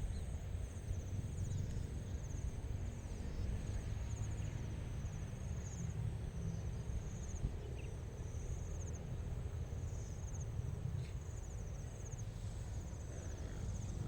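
Evening insects calling in a meadow: short pulsed trills repeating every second or so, over a steady high-pitched drone and a constant low rumble.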